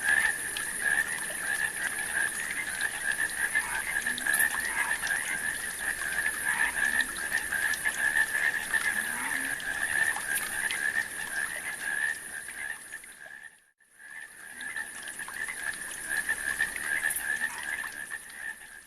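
Dense chorus of frogs calling continuously, a steady rapid trilling with a high hiss above it; it cuts out briefly about three-quarters of the way through and then resumes.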